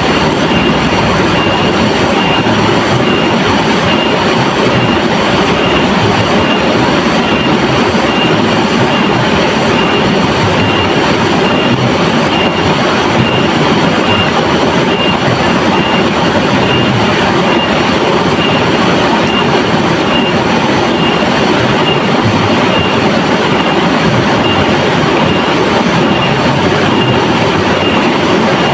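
River water rushing steadily, a loud even flow with no breaks.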